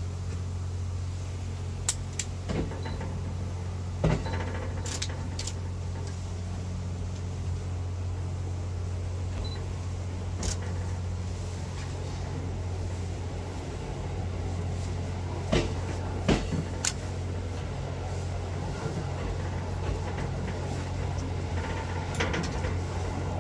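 Steady low engine hum from a passenger train standing at a station, with a few short knocks and clunks from the train every few seconds.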